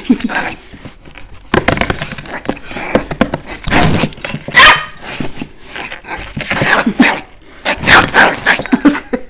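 Chihuahua puppy barking in many short, irregular bursts while play-fighting.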